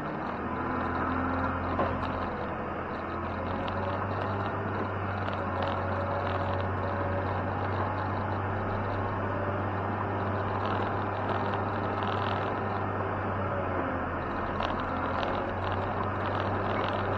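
Engine of a snow-plowing machine running steadily with a low hum.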